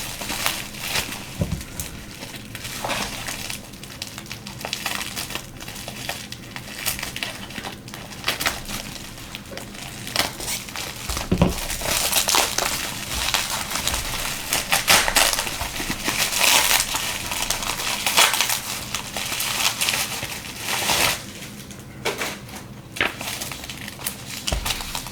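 Packing material crinkling and rustling as a mailed package is unwrapped by hand: a continuous crackle of small crunches, louder for a few seconds in the middle.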